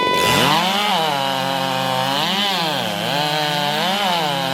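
Two-stroke racing chainsaws run at full throttle through timed cuts in logs. Their pitch dips and recovers several times as the chains bite into the wood.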